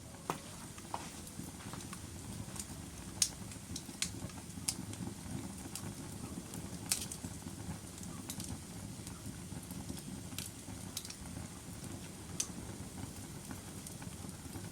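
Logs burning in a fireplace: a steady low rumble of flame with scattered sharp crackles and pops, the loudest about three and seven seconds in.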